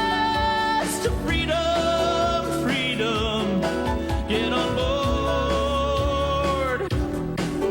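Folk-gospel song: a voice holding long notes with vibrato over instrumental accompaniment, three sustained notes in a row, the last and longest ending shortly before the end.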